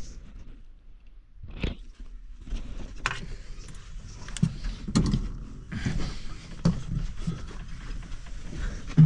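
Scattered clicks, knocks and scrapes of hands working apart a tractor's plastic joystick housing, over a steady low hum.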